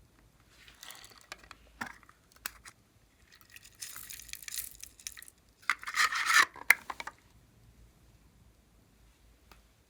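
Glossy slime and the things being mixed into it, worked and scraped by hand: three bursts of rubbing and scraping with sharp little clicks, the loudest a second or so before the end of the activity, then quiet.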